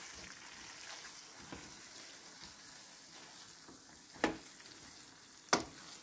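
Kuymak (cornmeal, butter and melted cheese) sizzling faintly in a copper pan as a wooden spoon stirs it. There are two short knocks near the end, about a second apart.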